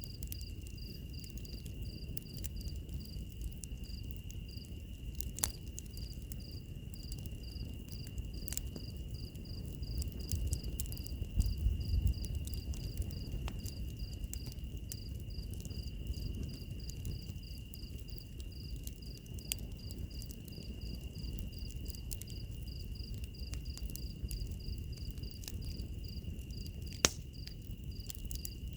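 Night insects calling: one holds a steady high trill while another chirps at an even pace, about three chirps a second. Under them is the low rush of a wood fire with scattered crackles and pops. The fire swells for a moment about eleven seconds in, and there is one sharp pop near the end.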